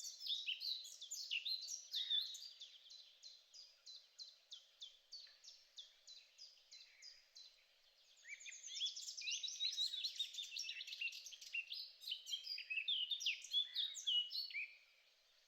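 A songbird singing: a fast run of repeated high, downslurred chirps, about five a second, that fades over the first seven seconds, then a busier, more varied burst of song that stops shortly before the end.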